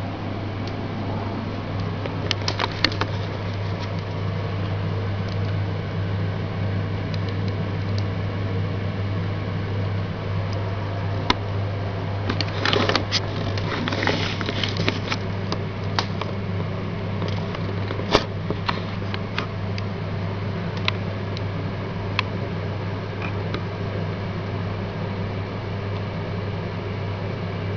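A steady low hum over a noise floor, like a fan or appliance running, with scattered light clicks and rustles, busiest about halfway through and with one sharper click a little after.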